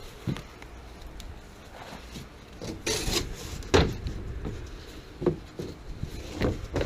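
A few irregular knocks and a short scraping rub. The loudest knock comes a little under four seconds in, and there are smaller ones later.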